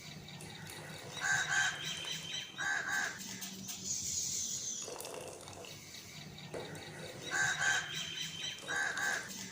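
Bird calls in a repeating pattern: two short double calls about a second and a half apart, then the same pair again about six seconds later.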